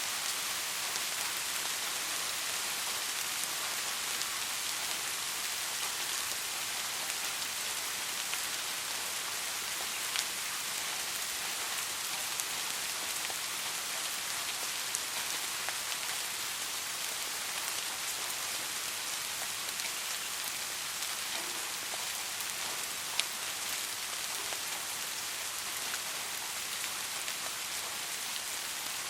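Steady soft rain, an even hiss of many small drops, with a few single drops ticking out more sharply now and then.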